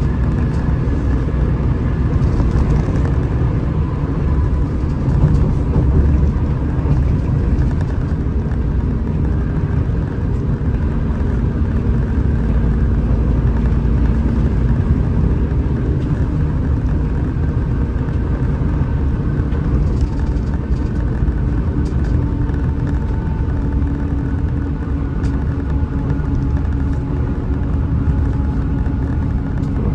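Hino RM 280 bus's diesel engine running steadily at cruise, with a continuous low rumble and an engine note that drifts slowly in pitch.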